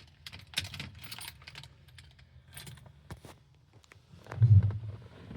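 Keys jangling and clicking in a series of small metallic clicks as the ignition key of a 1970 Ford Bronco is handled, ahead of a cold start. Near the end comes a brief, louder low rumble.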